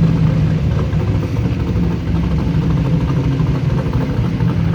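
Airboat engine and propeller running steadily, a constant low hum with no change in speed.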